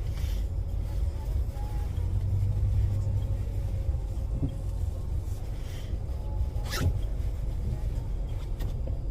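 A car's cabin noise while driving: a steady low rumble of engine and tyres on the road, with a single sharp click about seven seconds in.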